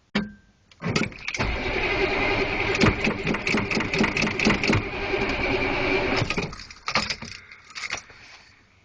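Cold 6.2 L diesel V8 of a Chevrolet K5 Blazer (M1009 CUCV) cranking over after a long glow-plug cycle, firing raggedly for about five seconds without settling, then fading out with a few last pulses. A short click comes just before the cranking starts.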